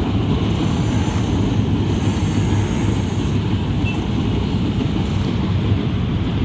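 Airport-line electric multiple-unit train running by with a steady low rumble.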